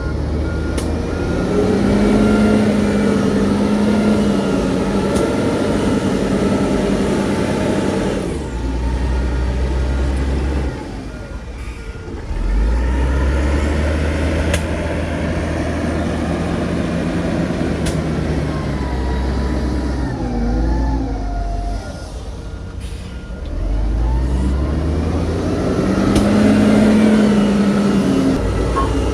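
Heavy diesel earthmoving machinery, a bulldozer and dump trucks, working under load, the engines' revs rising and falling in long surges. A reversing alarm beeps steadily at the start and again in the second half.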